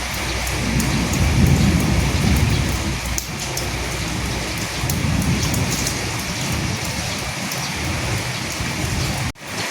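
Steady heavy rain falling on a surface, with many small drops ticking through it and low rumbles of distant thunder swelling about a second in and again around five seconds. The sound drops out for a split second near the end, then carries on.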